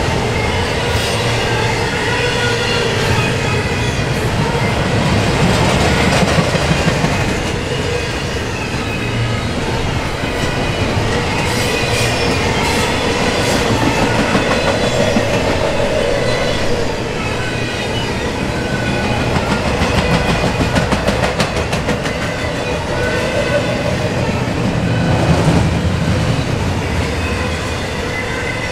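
Double-stack intermodal container cars rolling past at speed: a steady rumble and clatter of steel wheels on the rails, swelling and easing as the cars go by, with high ringing tones wavering in and out over it.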